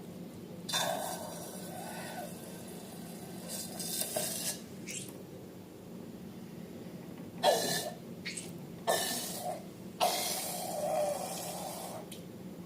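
Slime being squeezed and squished by hand: a handful of noisy bursts, each starting suddenly and lasting up to about two seconds.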